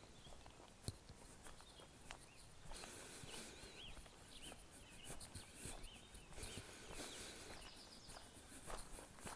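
Quiet outdoor walk: footsteps on a trail path, with small birds chirping in short, repeated, arching notes through the middle.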